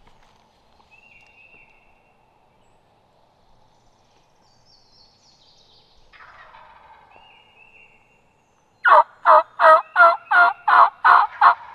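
Wild turkey calling: a run of eight loud yelps, about three a second, starting about nine seconds in. Before it, faint songbird calls.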